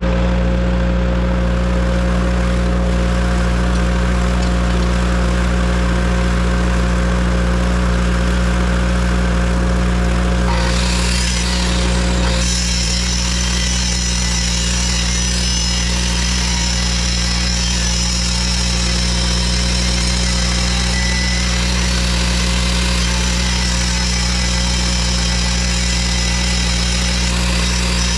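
An engine running steadily at idle, with a steady low hum. About ten to twelve seconds in, a steady high-pitched whine joins it.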